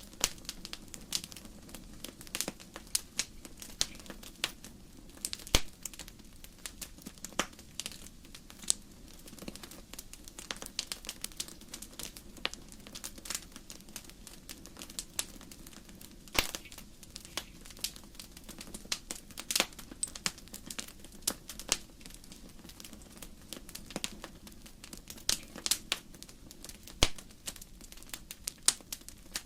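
Firewood burning in a fireplace, crackling with irregular sharp pops and snaps over a low, steady rush of the flames.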